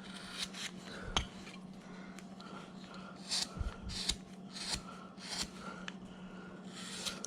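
Hand carving tool slicing and paring wood, a series of short, irregular scraping cuts with a sharper click about a second in, over a steady low hum.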